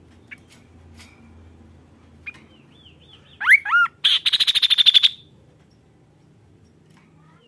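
Kaso-kaso bird in full song: a few soft chips and a string of quick looping notes, then two loud rising whistles and a fast rattling trill lasting about a second.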